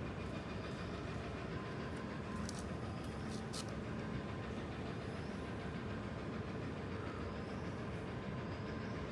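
Steady low rumble of distant vehicle noise, of a kind typical of a passing train, with a few very short, high bird chirps about two and a half to three and a half seconds in.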